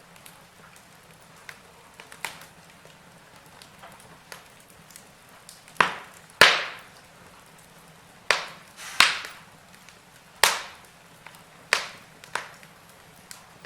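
Wood fire in a fireplace crackling: irregular sharp pops and snaps over a faint steady hiss, with several loud pops in the second half.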